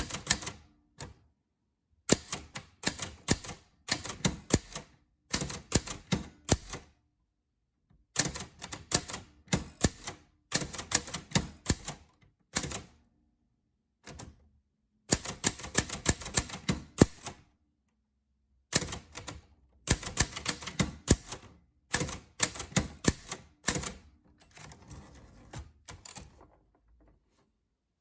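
Typewriter keys striking in quick runs of clicks, each run a second or two long, separated by short pauses, as text is typed out. Near the end comes a quieter, softer stretch.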